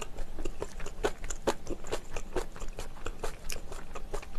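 A person chewing food close to the microphone: a rapid, irregular run of short mouth clicks and smacks.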